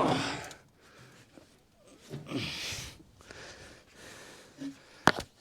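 Sharp knocks of a 2x4 being beaten on the pistons of a seized Chevrolet V8 to free it. One blow rings out at the start and two quick ones come near the end. A short breathy huff falls in between.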